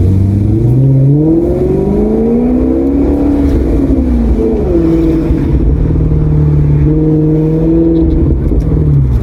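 Maserati GranTurismo V8 engine accelerating. Its pitch climbs steadily for about three seconds, falls back over the next two, then holds fairly steady before dropping again near the end.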